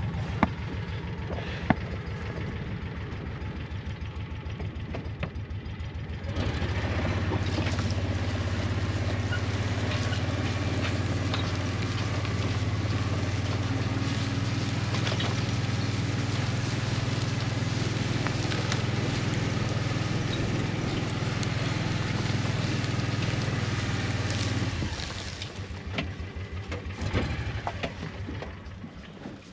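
A motor vehicle's engine running steadily. It gets louder about six seconds in, as if throttled up or under load, and drops back to a lower level near the end.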